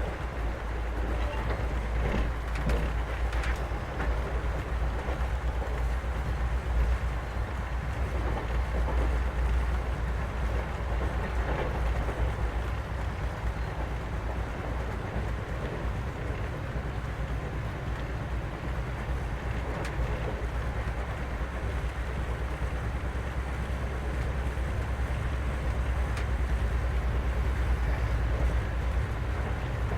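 Passenger train running: a steady deep rumble of the wheels on the rails, with a few faint knocks in the first few seconds.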